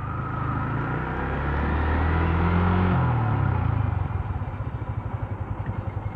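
Motorcycle engine accelerating: its pitch climbs for about three seconds, then drops as the throttle closes, and from about four seconds in it runs at a low, even putter.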